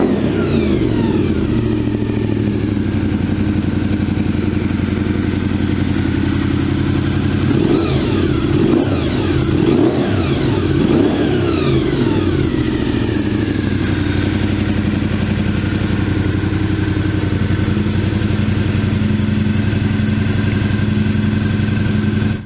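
1997 Honda VFR750F Interceptor's V4 engine idling, blipped through a few quick revs about a third of the way in, then settling back to a steady idle before cutting off abruptly.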